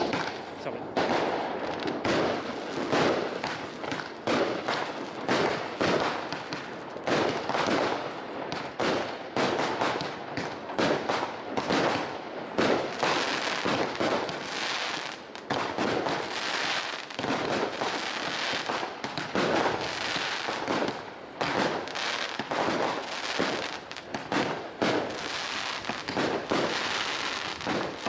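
Fireworks display: a dense, continuous run of shell bursts and crackling reports, many overlapping bangs a second.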